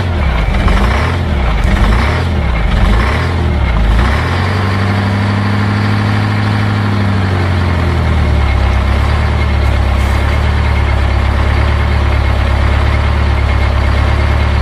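Diesel engine just after a cold start, blipped up and down about once a second for the first four seconds, then settling into a steady idle.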